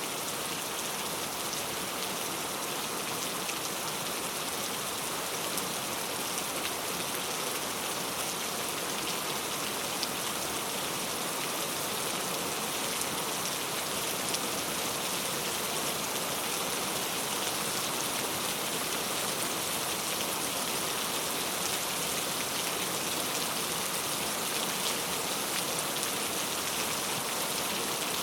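Steady rain falling, an even hiss with many small drop ticks and no pauses.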